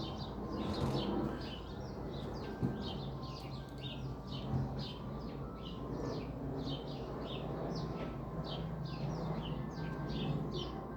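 Birds chirping steadily in many short, quick calls, over a low steady hum.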